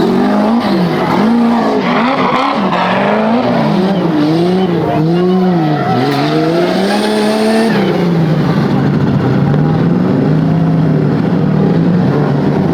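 Off-road 4x4 engine revving up and down over and over, its pitch rising and falling about once a second, then running at a steadier pitch from about eight seconds in.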